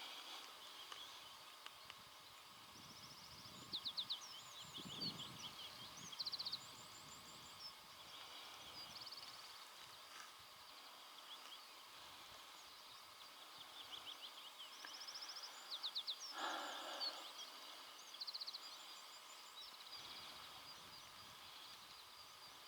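Small songbirds singing in bursts of fast trills and quick sweeping notes, in two spells, over a faint steady outdoor background with a few soft rustles.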